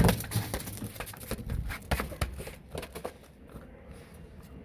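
A dog scuffling and scrabbling about. A sharp knock comes right at the start, followed by irregular scuffs and light taps.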